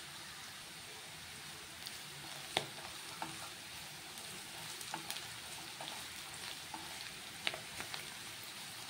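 Onions, green chillies and curry leaves sizzling in hot oil in a nonstick frying pan, the tempering for upma being sautéed. From about two seconds in, a plastic spatula stirs them, with sharp taps and scrapes against the pan.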